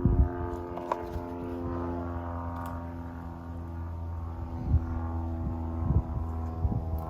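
An engine running steadily at a constant pitch, with a few dull low bumps at the start and twice in the last few seconds.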